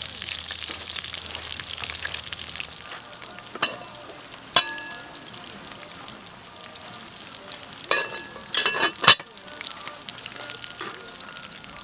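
Food sizzling in a hot frying pan, with a few sharp, ringing clinks of a utensil against the pan or dishes in the second half.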